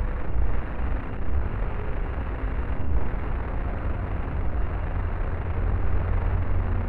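Wind buffeting the microphone: a loud, unsteady low rumble over a steady hiss.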